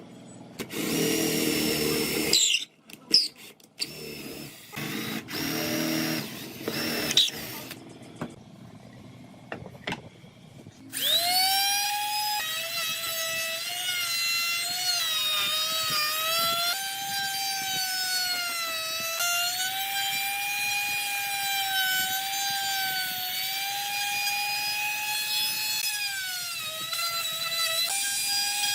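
A few short noisy bursts of shop work, then about eleven seconds in a high-speed power tool starts and runs with a steady whine, its pitch sagging and recovering as it cuts into wood.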